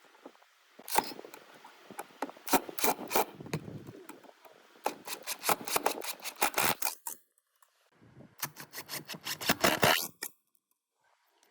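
Rubbing and scraping strokes on wood, in quick irregular runs: one long run, a brief pause, then a second run that stops about a second before the end.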